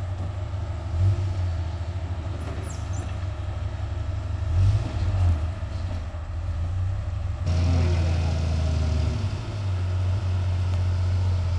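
Off-road 4x4's engine running at low revs as the vehicle crawls over a steep, rough slope, the engine note getting louder about two-thirds of the way through.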